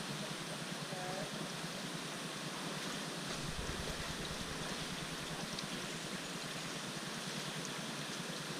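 Steady rushing of flowing stream water, with a brief low rumble about three seconds in.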